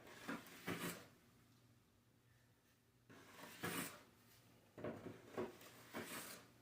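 Drywall knife scraping joint compound over a wall patch in short strokes, in three bunches: at the start, around three to four seconds in, and again from about five seconds on.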